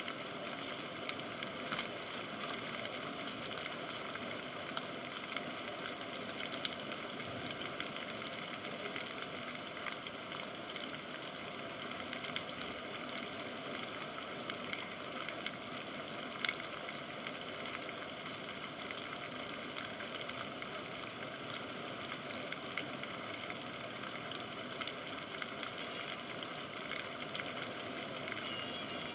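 Steady rain with a constant hiss and scattered sharp drop ticks.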